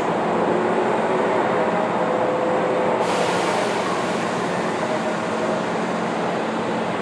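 Inside a Kintetsu commuter train standing at the platform before departure: the steady hum and hiss of the car's onboard equipment, with faint tones coming and going. About three seconds in, a brighter hiss joins.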